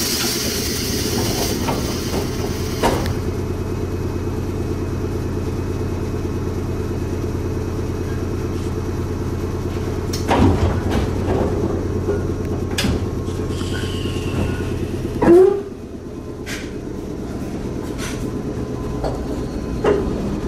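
Inside a JR West 105 series electric train stopped at a station: a steady low hum from the car's equipment, a burst of air hiss at the start as the doors open, and a loud clunk about fifteen seconds in as the doors close. After the clunk the hum drops and the running noise slowly builds as the train pulls away.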